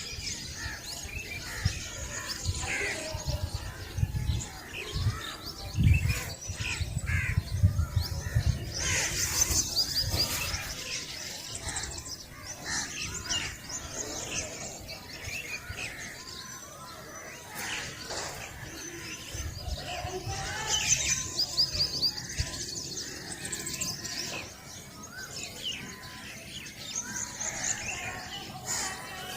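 Several birds chirping and calling at dawn, with overlapping short chirps and trills throughout, and a low irregular rumble during the first third.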